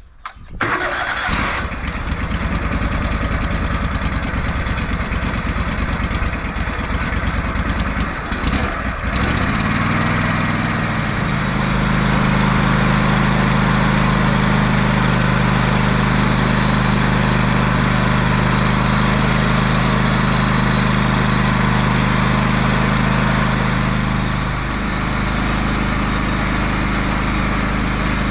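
Portable sawmill's engine starting and running rough, then throttled up about ten seconds in to a steady, even pitch, and throttled back a few seconds before the end.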